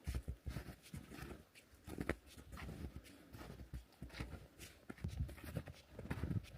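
A hiker's footsteps in snow, walking at an uneven pace of about one or two steps a second.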